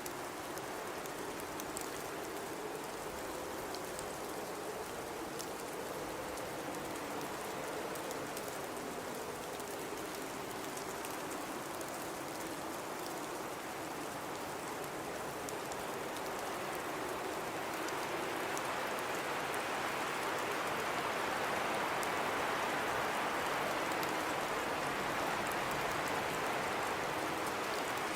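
Blizzard wind blowing steadily, with a low wavering howl in the first half, then swelling louder and hissier about two-thirds of the way through. Faint scattered ticks sound over it.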